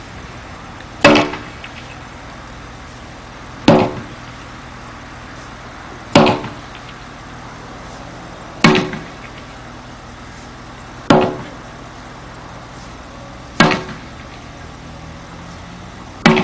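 Wooden staff striking a tractor tyre hard, seven blows evenly spaced about every two and a half seconds, each a sharp thwack with a brief ringing tail.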